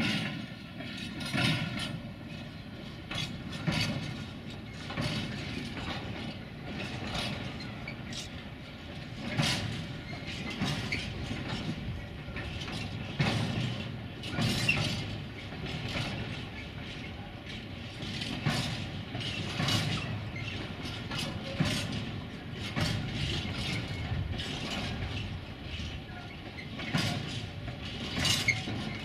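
Freight wagons rolling slowly past on the rails, their wheels knocking over rail joints and points in an irregular run of clanks over a low rumble.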